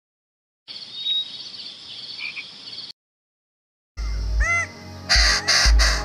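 Forest ambience with a thin high whistle and a brief two-note call, which cuts off after about three seconds. After a second of silence comes a quick run of rising-and-falling bird notes, then three loud, harsh, crow-like calls near the end.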